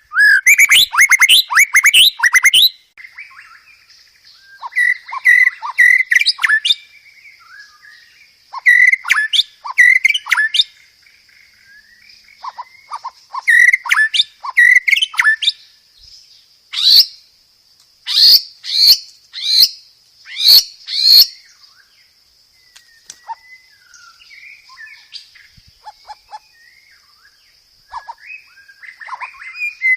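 White-rumped shama (murai batu) singing: bursts of rapid, varied whistled phrases and trills separated by short pauses. A run of about five loud, sharp downslurred whistles comes about two-thirds through.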